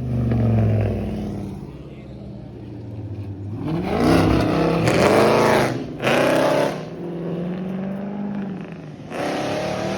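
Car engine running and being revved: a steady idle, then the pitch climbs about four seconds in as the engine revs up. The sound jumps abruptly in level a couple of times.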